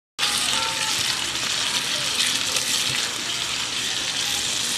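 Chayote strips and canned sardines sizzling in hot oil and sauce in a pan while being stirred with a spatula: a steady hiss that starts a moment in, after a brief silence.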